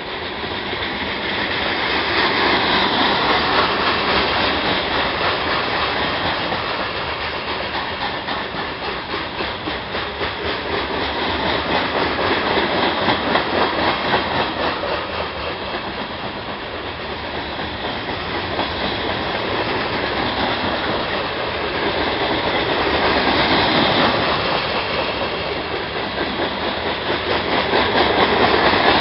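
Freight cars of a gravel train rolling past slowly, steel wheels clacking over the rail joints. The noise swells and eases every several seconds.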